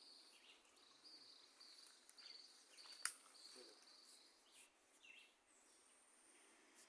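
Near silence with faint insect chirping: a high trill that comes and goes, and a few soft clicks, one about three seconds in.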